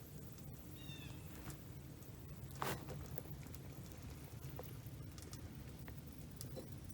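Quiet outdoor ambience: a steady low rumble with scattered small clicks and crackles, a short chirping bird call about a second in, and one sharper snap a little before the middle.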